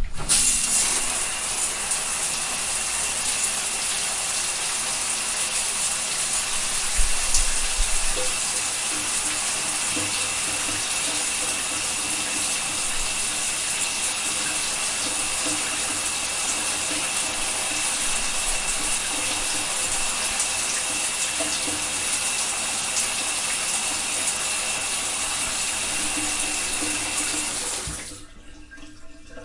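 Shower spray running, a steady rushing hiss of water that shuts off abruptly near the end.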